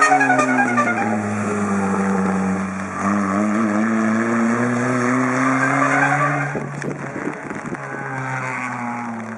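Rally car engine running hard, its note dipping and then climbing again, with tyres skidding. About six and a half seconds in there is a rapid string of sharp cracks, and then the engine sound fades toward the end.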